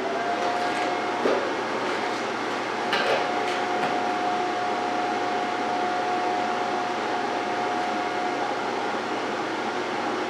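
MIG welding arc running a continuous bead under argon/CO2 shielding gas: a steady hiss and crackle with a steady hum-like tone, starting at the beginning, with two sharper pops a little over a second and about three seconds in.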